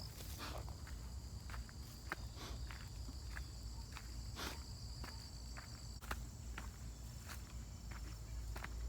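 Footsteps of a person walking outdoors, in an uneven series of steps. A steady high-pitched insect drone runs beneath them and stops about six seconds in.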